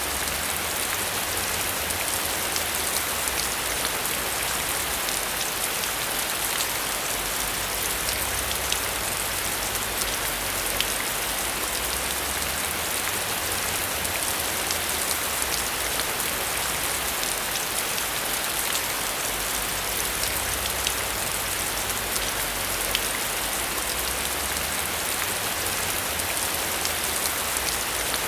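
Heavy rain falling steadily on a metal roof, a dense hiss with many individual drops ticking sharply on the surface.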